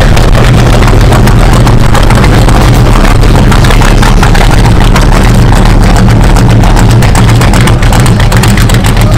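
Rat rod pickup's engine running loud and steady as the truck drives slowly past, with a rough exhaust note.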